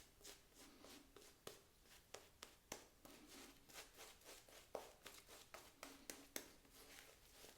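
Faint, irregular soft strokes and small clicks of a lather-loaded shaving brush being worked over the face to re-lather for a second razor pass.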